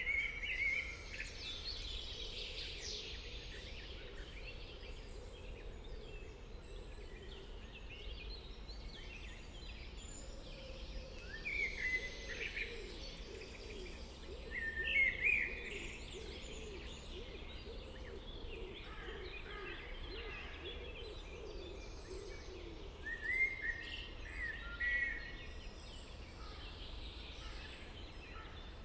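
Songbirds singing in short, separate phrases every few seconds over a steady low outdoor rumble. From about ten seconds in to a little past twenty, a lower wavering sound runs underneath.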